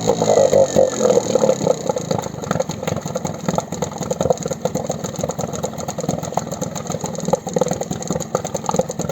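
Outboard boat motor running, its revs easing off in the first second or so and then settling to a steady idle with rapid, even firing.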